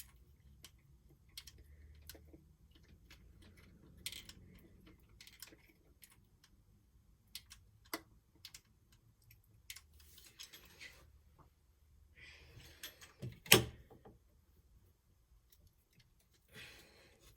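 Scattered small clicks, taps and rustles of hands handling and fixing small plastic Lego parts, with one loud sharp knock about two-thirds of the way through.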